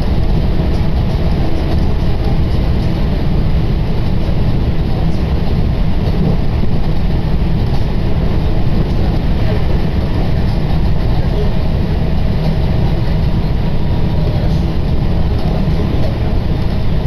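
Running noise heard from inside a moving commuter train car: a steady, loud low rumble of the wheels on the rails and the car in motion.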